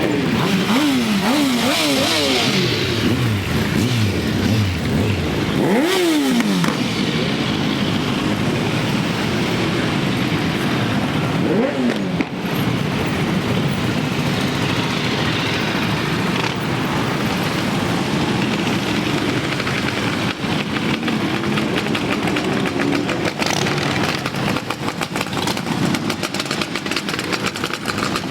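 Several motorcycle engines running and being revved, their pitch rising and falling in quick blips early on, with sharp revs about six and twelve seconds in. After that comes a steadier, dense engine din as many bikes ride past together.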